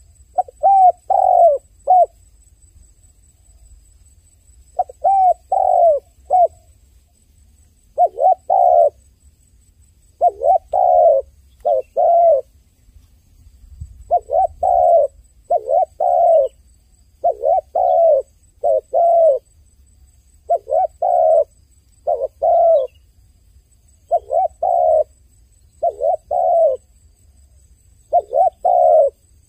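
A dove cooing in short phrases of two or three notes. The phrases repeat every second or two after a pause of a few seconds near the start.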